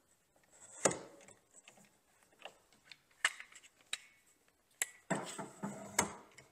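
A sander stand being clamped to a workbench: a string of separate sharp knocks and clicks of the clamp and the base against the bench, about one a second, with a short scrape near the end.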